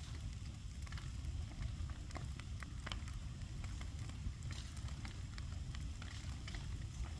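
Bonfire of old fence timber burning, with frequent sharp crackles and pops scattered over a steady low rumble.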